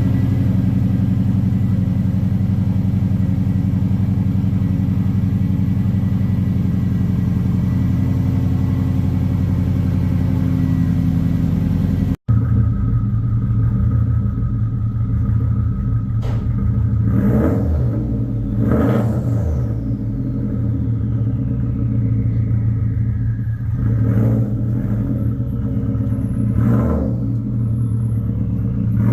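Swapped-in 2-litre Subaru WRX engine in a drift car running at a steady pitch while the car is driven. After a cut about twelve seconds in, it revs up and falls back several times.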